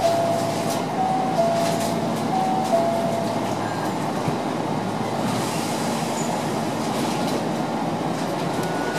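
Hankyu train standing at a station platform, heard from inside the car: a steady hum, with a two-note electronic signal alternating high and low about once a second for the first three seconds. A short hiss comes about five seconds in, and a steady high tone begins near the end.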